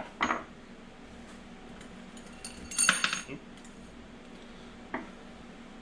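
Small metal parts clinking and rattling as they are handled at a split transmission case, with a short cluster of clinks about three seconds in and a single click near the end.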